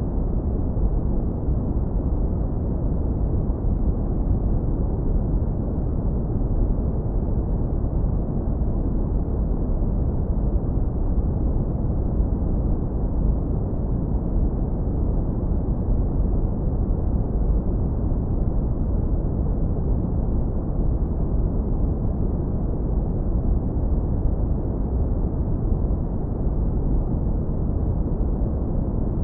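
Steady, deep brown noise, heavily low-pass filtered so that it is mostly low rumble with almost nothing above a couple of kilohertz, at an unchanging level.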